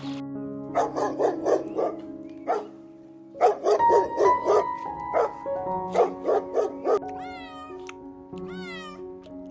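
Domestic animal calls over soft background music: quick strings of short, sharp calls, about four a second, then near the end two calls that slide down in pitch.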